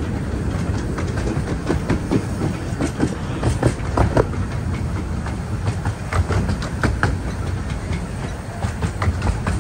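A 15-inch-gauge miniature railway train running: a steady rumble with irregular clicks and rattles of the wheels over the rail joints.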